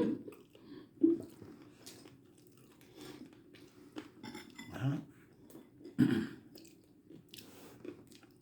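A person chewing and biting into crunchy food, in short irregular crunches with quiet gaps between them.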